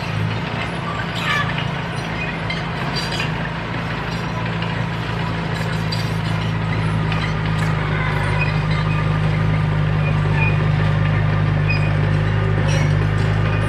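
Komatsu D31P crawler bulldozer's diesel engine running steadily under work, with scattered metallic clinks; the engine grows a little louder from about eight seconds in.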